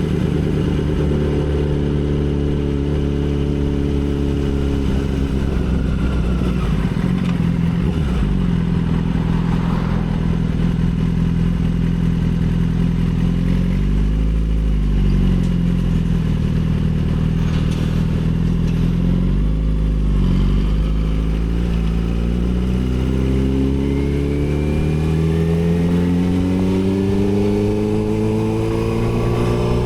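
Yamaha R6's 600 cc inline-four engine under way. Its note falls over the first several seconds, holds fairly steady with a couple of brief dips, then climbs smoothly through the last eight seconds as the bike accelerates.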